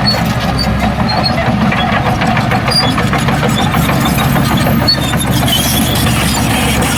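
Heavy diesel engine of earthmoving machinery running steadily, its low engine note holding even throughout.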